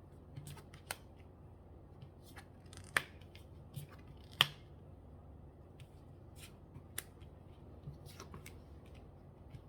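Lenormand cards being handled and laid down on a table: a scattered series of light clicks and taps, the sharpest about three and four and a half seconds in, over a faint low hum.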